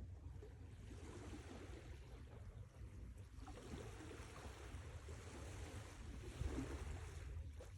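Sea waves washing ashore over a steady low rumble, two waves swelling and fading in turn.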